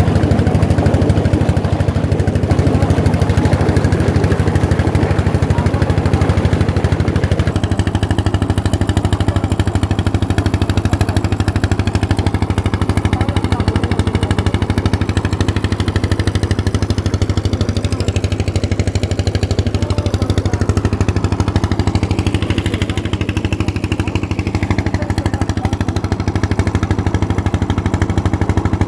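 An old engine driving a tubewell water pump, running steadily with an even beat.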